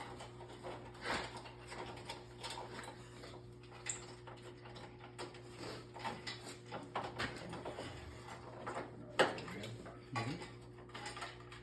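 Scattered metallic clinks, creaks and knocks of a Ford 4.9 straight-six engine and its lifting chain shifting as it is jacked up out of the truck, over a steady low hum; the loudest knock comes about nine seconds in.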